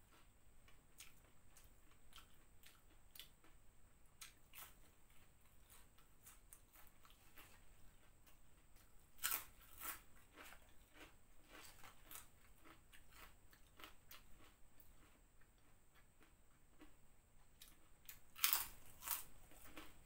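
Close-miked chewing and crunching of a crispy fried corn fritter, with many small crackles and clicks throughout. Two louder crunching bites come about nine seconds in and near the end.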